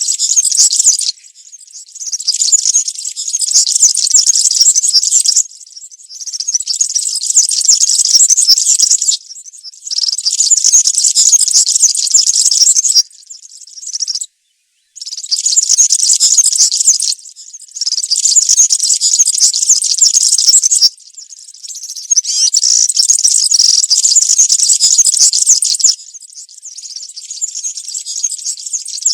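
European serin singing its fast, high-pitched wild-type (campero) song in repeated phrases of about two to four seconds, separated by short pauses.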